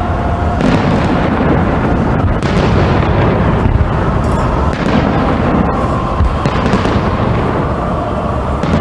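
New Year's fireworks going off, a run of sharp bursts every second or so over a steady din of further explosions.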